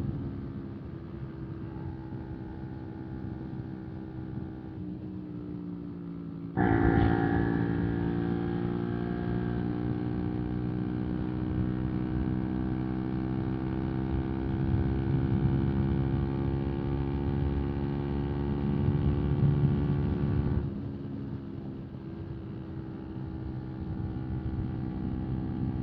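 125 cc single-cylinder motorcycle engine running on the move. It gets suddenly louder about six and a half seconds in, its pitch sagging slowly while it stays loud, then drops back to a quieter run about twenty seconds in.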